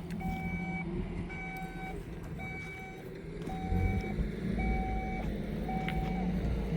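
A vehicle's reversing alarm beeping steadily, about one beep a second, over the low running of its engine, which gets louder about four seconds in.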